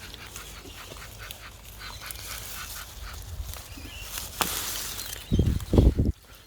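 Beetroot leaves and soil rustling as the bulbs are pulled and handled, then two or three heavy, dull thumps close together near the end.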